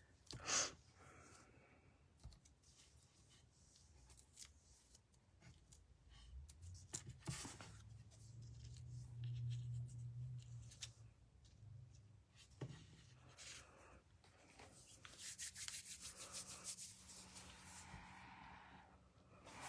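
Faint rubbing and rustling of paper and card being handled and arranged on a craft desk, with scattered light clicks and taps and a longer stretch of rubbing near the end.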